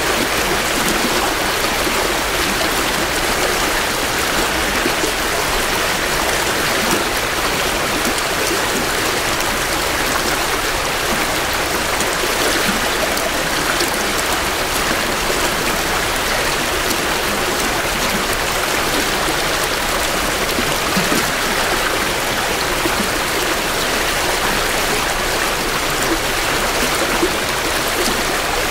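A small creek in spring runoff flowing and burbling steadily over rocks, close to the microphones.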